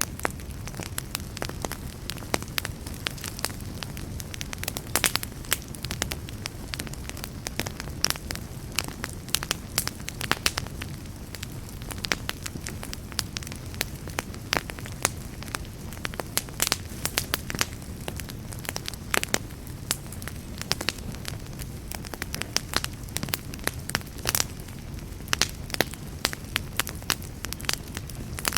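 Wood campfire burning with a steady low rush of flame and frequent sharp, irregular crackles and pops.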